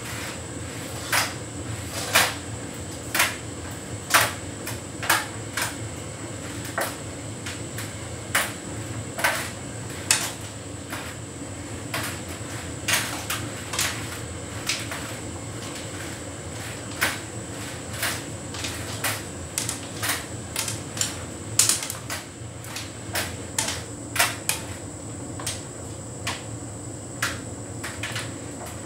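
Hotpoint heat pump tumble dryer running mid-cycle: a steady hum with a faint high whine, and irregular knocks and clicks about once a second from the load tumbling in the drum.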